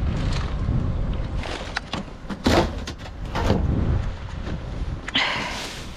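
Rummaging through bagged and packaged frozen food in a dumpster: several sharp crackles and knocks of plastic packaging being handled, over a steady low rumble.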